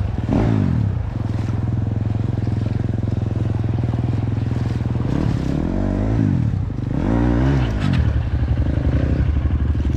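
Four-stroke dirt bike engine running, its pitch rising and falling in three quick revs: about half a second in, again around five to six seconds, and again around seven seconds.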